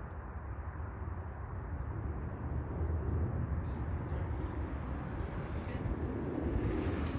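Jet engine noise from a climbing Boeing 767-300ER's twin turbofans, a low rumble that grows louder about two to three seconds in.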